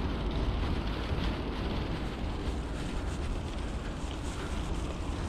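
Wind buffeting the microphone while riding a bicycle: a steady low rumble with hiss.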